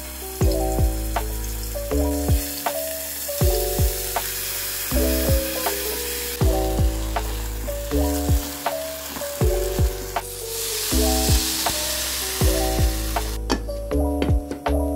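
Food sizzling as it fries in a hot pan, under background music with a steady beat. The sizzle cuts off near the end while the music carries on.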